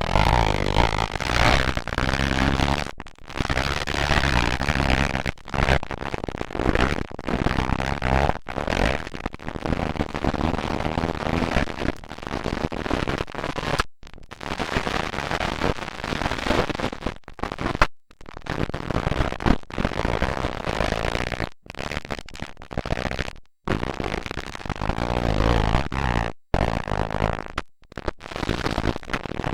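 Motocross dirt bike engines racing, recorded loud and harsh on a camcorder microphone. The sound drops out abruptly for split seconds several times.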